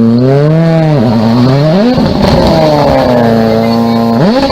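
Rally car engine revving hard. Its pitch climbs and falls with the throttle and dips sharply about a second in and again near the end.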